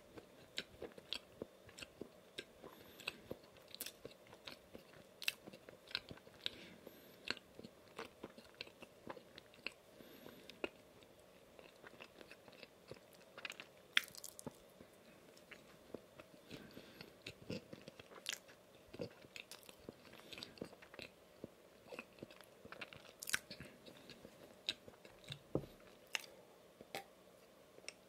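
Close-miked chewing of a Dunkin' donut with frosting and sprinkles: an irregular run of sharp little mouth clicks and smacks, several a second.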